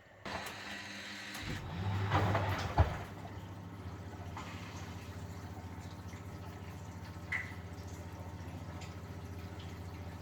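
1971 Constructa Garant 491 washing machine running a boil wash: after a short pause the drum motor starts, water swishing in the drum, with a sharp click about three seconds in, then a steady mains-like motor hum.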